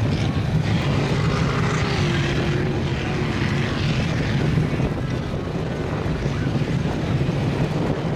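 Mud truck engine running at a steady drone, with a faint wavering whine above it.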